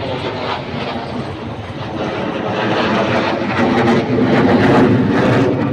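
Military aircraft flying past at an air show: a loud, rushing engine noise that grows louder toward the end.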